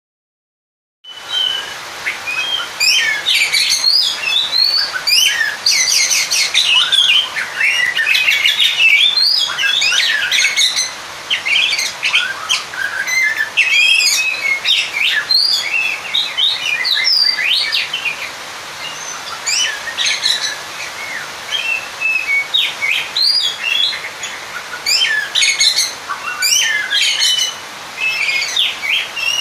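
Oriental magpie-robin (kacer) singing a fast, varied, unbroken run of chirps, whistles and trills, starting about a second in. It is the challenge song of a bird calling out a rival.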